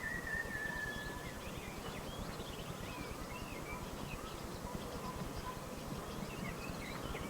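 Birds calling: a long whistled note that fades out about a second in, then many short chirps and twitters, over a steady hiss.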